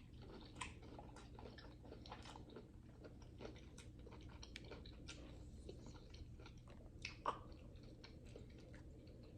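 A person chewing and biting food close to the microphone: faint, irregular wet clicks and crunches of eating, with two sharper smacks about half a second in and about seven seconds in.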